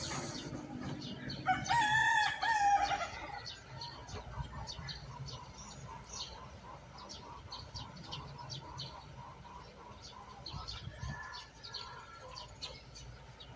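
A bird calling: one long, wavering call about two seconds in. A fainter call follows near the end, with faint chirps and ticks throughout.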